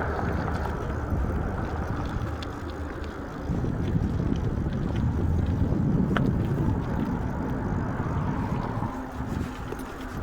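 Wind rushing over the microphone and road noise from a moving bike: a steady low rumble that eases for a moment near the end.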